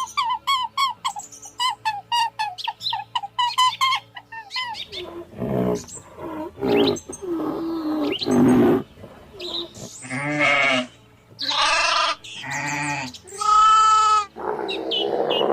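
Animal calls: a fast run of short repeated chirps, about five a second, for the first four seconds or so. Then a string of separate pitched bleats, typical of goats, several with a wavering pitch.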